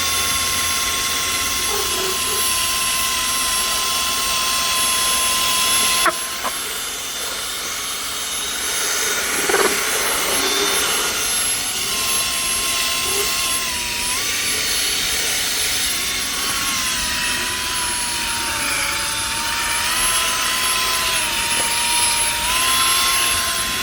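A small electric motor in a cleaning machine running with a steady whine over a hiss; its pitch sags and recovers several times in the second half, as if it is loaded and unloaded. A sharp click comes about six seconds in.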